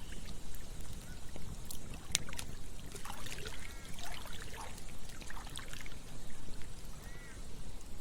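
Campfire crackling with scattered sharp pops over the steady rush of a stream, with a run of water gurgles in the middle and one more near the end.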